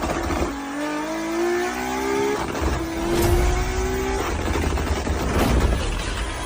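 Toyota Supra MK4's straight-six engine and exhaust accelerating hard, its pitch climbing, dropping at a shift a little over two seconds in, and climbing again to about four seconds in. After that comes a rough, noisy stretch with no clear pitch.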